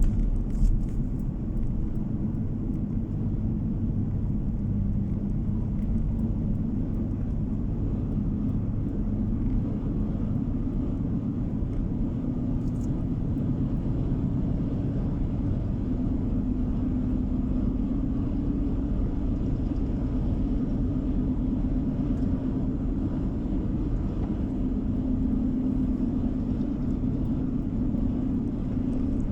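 Steady car driving noise heard from inside the cabin: a low road-and-engine rumble with a hum that drifts slightly in pitch, and a brief faint click near the start and again about halfway through.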